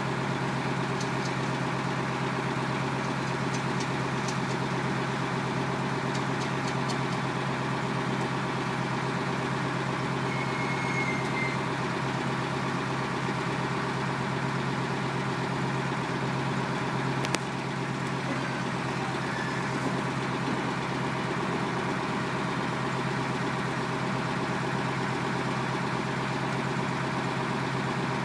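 Truck engine idling steadily, with one sharp click about 17 seconds in.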